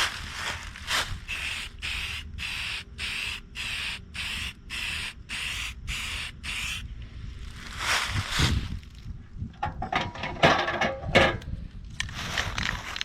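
Spray-paint can hissing in a rapid run of short bursts, about three a second, for the first seven seconds, then a few longer irregular hisses and rattles near the end.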